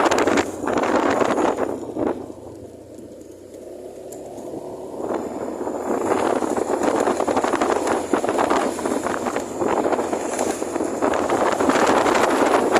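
Strong wind buffeting the microphone, a rough rushing noise that drops away about two seconds in and builds back up after a few seconds.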